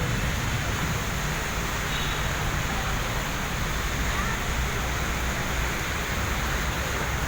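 Steady hiss of heavy rain mixed with a low rumble of road traffic.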